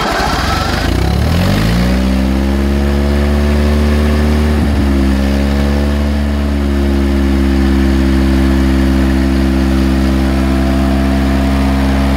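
Austin Champ's petrol engine catching and revving up, stumbling briefly about five seconds in, then picking up again and settling into a steady fast idle. It is running for the first time after sitting unused for ten years.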